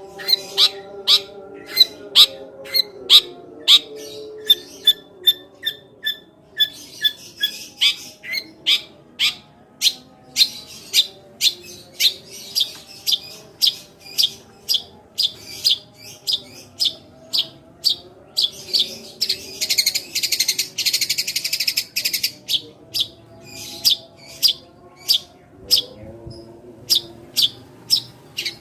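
Tree-sparrow-style 'tembakan' song: sharp, high chirps repeated at about two a second, broken by a harsh, buzzy chattering burst about two-thirds of the way through.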